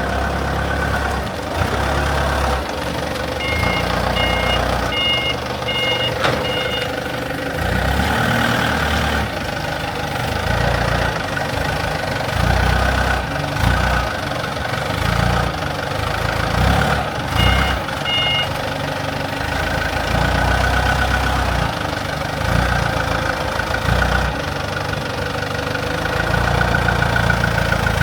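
Excavator's diesel engine running steadily, with its two-tone travel alarm beeping in a run of about six beeps a few seconds in and a couple more past the halfway mark.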